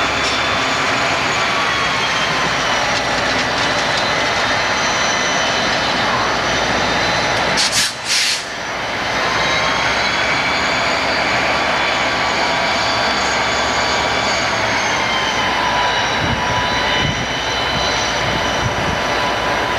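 A train rolling past on the rails, a loud steady rumble with several high ringing tones from the wheels held over it. The sound briefly drops out about eight seconds in.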